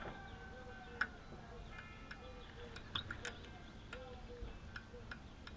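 Turn-signal flasher relay from a 1959 Ford Thunderbird clicking on the bench as it is powered and grounded, a series of sharp clicks a few times a second: the relay is working.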